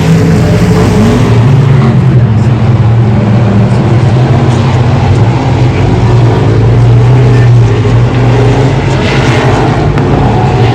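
Race car engines running loud and steady, a continuous low drone of several cars lapping the track.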